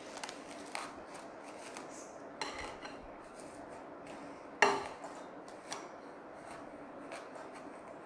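Scattered light knocks and clinks of hands working at a glass vase, pressing moss into place, with one sharper clink that rings briefly about halfway through.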